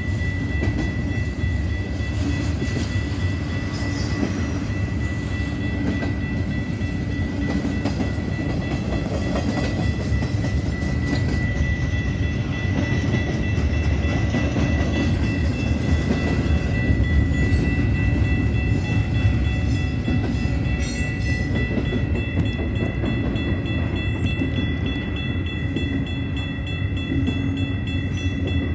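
BNSF double-stack intermodal train rolling past, its container well cars making a steady rumble and clatter of wheels on rail joints. Over it a grade-crossing warning bell rings as a steady high tone.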